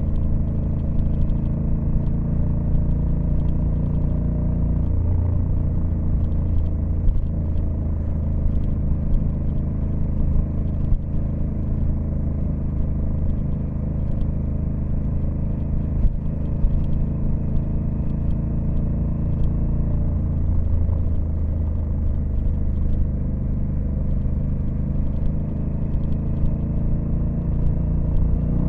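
Honda Africa Twin CRF1100L's 1084 cc parallel-twin engine running at steady cruising revs, its note holding nearly level with only slight dips and rises in pitch.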